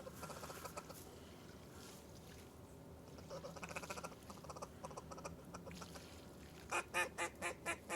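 Duck quacking: a run of about six loud, quick quacks near the end, with fainter quacking about three seconds in.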